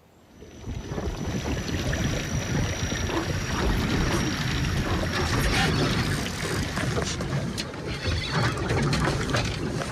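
Wind buffeting the microphone and water rushing on a moving boat. It starts suddenly about half a second in and then stays loud.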